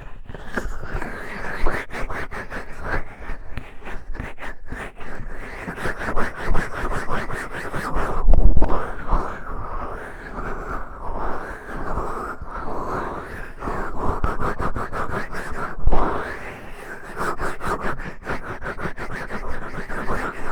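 Close-miked fingertip digging deep in an ear: a dense, continuous run of crackly rubbing and scratching with fine clicks, and a couple of louder muffled thumps about eight and sixteen seconds in.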